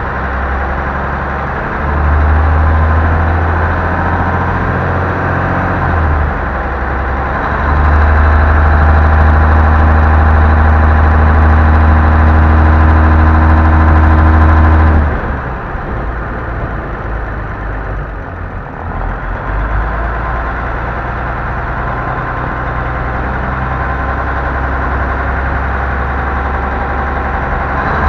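M923A1 5-ton 6x6 military truck's diesel engine running with a heavy low rumble. It swells louder twice, then drops off sharply about fifteen seconds in and settles to a quieter, steadier run.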